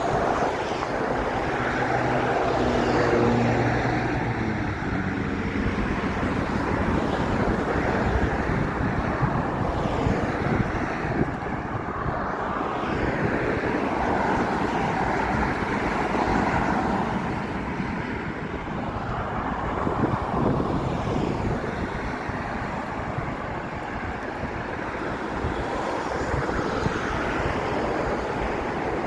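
Steady outdoor noise of road traffic and wind on the microphone, with a low engine hum in the first few seconds.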